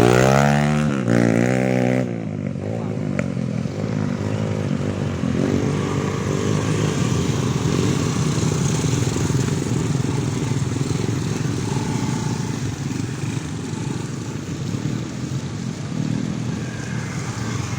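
Motor vehicle engines running on a road: one engine revving up and down in the first two seconds, then a steady engine rumble.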